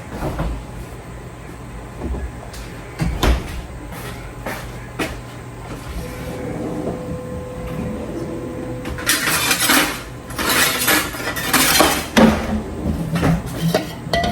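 Kitchen handling sounds as the refrigerator is used: several knocks and door thuds in the first few seconds, a faint steady tone for a few seconds about halfway, then crinkling, rustling noise for the last few seconds.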